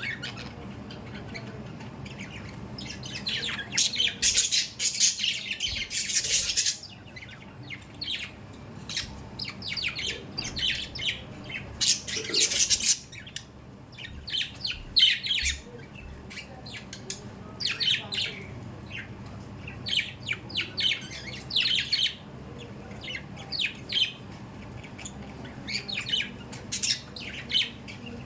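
Budgerigars chattering, with rapid high chirps and squawks coming in irregular bursts. The loudest, densest bursts come about three to seven seconds in and again around twelve seconds.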